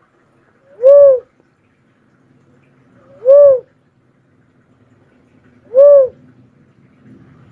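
Cuckoo-dove calling: three single loud coos about two and a half seconds apart, each a short note that rises and falls in pitch.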